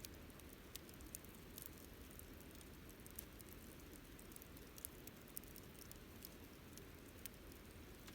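Wood campfire crackling faintly, with sporadic sharp ticks and pops over a low steady rumble.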